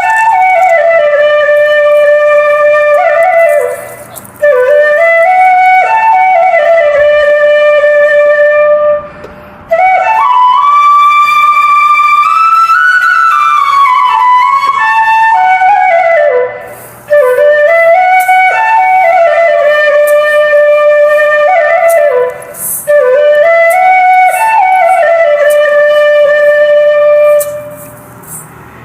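Background flute music: one melody played in phrases of several seconds, each rising and falling in pitch, with short pauses between them.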